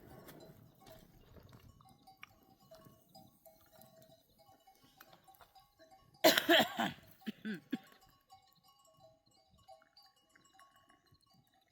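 A loud bleat from the grazing flock about six seconds in, followed by a shorter, falling bleat, over the faint on-and-off ringing of livestock bells.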